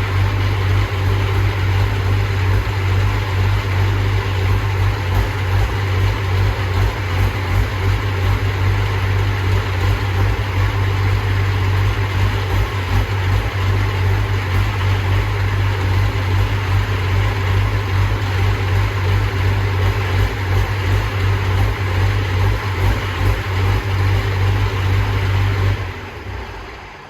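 Diesel engine of a competition pulling tractor, running on racing diesel, idling steadily with a strong low hum. It is fired up to check that it still runs well after losing some fuel pressure at the end of a pull. The sound fades out near the end.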